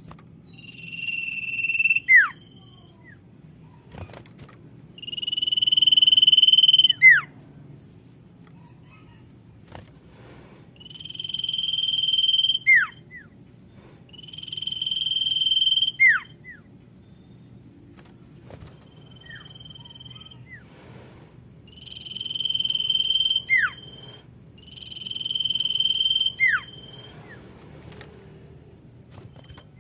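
Common iora (cipoh) whistling: long drawn-out notes, each held about two seconds and most ending in a quick downward slur, repeated every few seconds. This is the female's call to a male.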